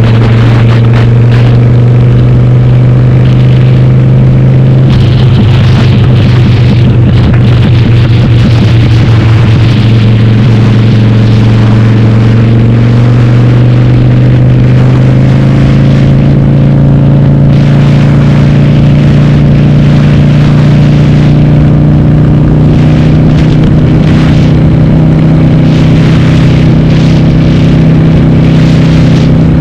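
Harley-Davidson Sportster V-twin, bored to 1200 and running through a Cobra Speedster 909 exhaust with the dB killers removed, under way. Its note is steady at first, turns rougher for a few seconds about five seconds in, then rises slowly in pitch through the second half as the bike gains speed.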